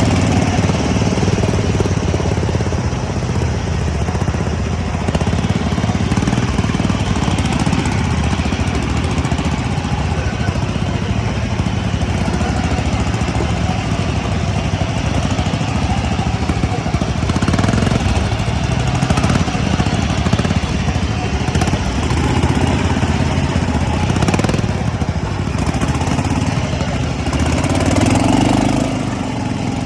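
Ride-on lawn mower engine running steadily under load while mowing, with the rattle and rush of the cutting deck; it swells briefly near the end.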